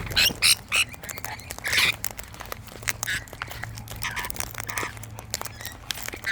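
Wild cockatoos calling in short bursts, loudest in a quick cluster over the first two seconds and more scattered after, with sharp clicks in between.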